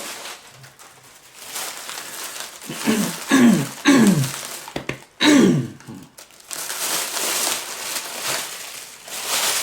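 Packaging crinkling and rustling as the last gift is unwrapped by hand. A few short falling voice sounds come a few seconds in.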